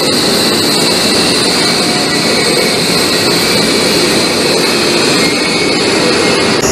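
High-speed electric train standing at the platform, its equipment giving a steady loud rushing noise with a constant high whine.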